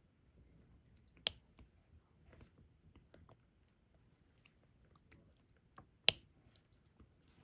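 Soft irregular clicks and taps of diamond-painting work: a drill pen picking up resin drills and pressing them onto the sticky canvas, with two sharper clicks, about a second in and about six seconds in.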